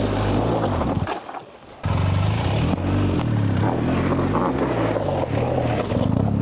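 BMW GS boxer-twin motorcycle engine revving up and down as the bike works through mud. The engine sound drops away about a second in, then cuts back in abruptly and keeps revving.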